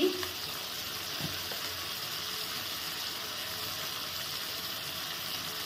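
Cumin and red chilli paste frying in mustard oil in a wok, a steady sizzle as the masala is cooked down.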